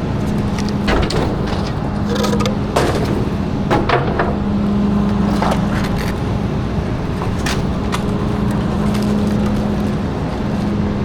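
Garbage truck engine running steadily, with irregular knocks and cracks of trash being handled and crushed.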